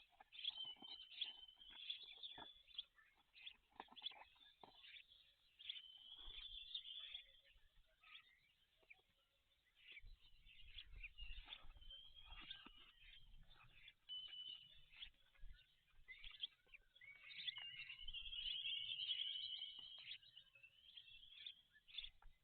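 Small birds chirping and singing, with repeated short, high trills throughout and a faint low rumble in places.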